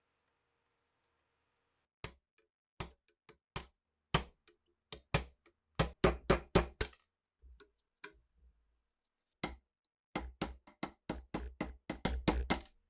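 A series of short, sharp taps and knocks in uneven runs, from a hand tool striking the workpiece. After a pause they speed up to about four a second near the end.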